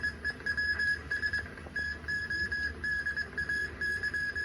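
A high electronic tone sounding in short, uneven pulses, several a second, like a stuttering beep.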